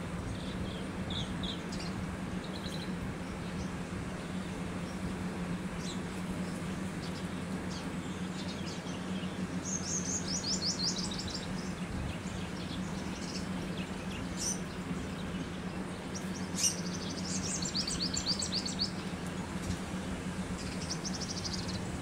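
Small birds chirping, with short high-pitched trills about ten seconds in and again in the last few seconds, over a steady low hum.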